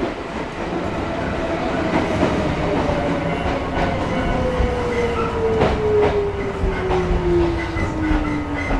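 Onboard running sound of a Chichibu Railway 5000 series (ex-Toei 6000) resistance-controlled electric train. The traction motor whine falls steadily in pitch as the train slows, over wheel and rail rumble with a few rail-joint clicks.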